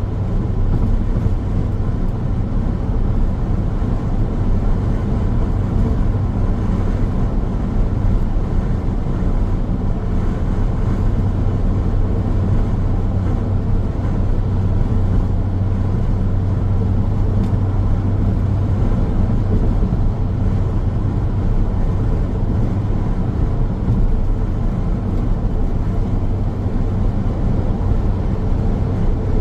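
Car driving steadily along a road: continuous tyre and road noise with a steady low hum, no changes of speed or passing events.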